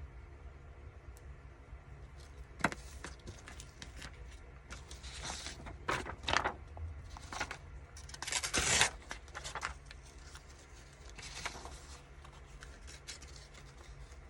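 Paper being handled: a few short bursts of rustling and scraping, the loudest about two-thirds of the way through.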